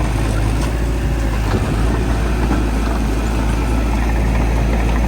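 Heavy diesel earthmoving machinery running steadily, a loud, deep engine drone with no change in pace.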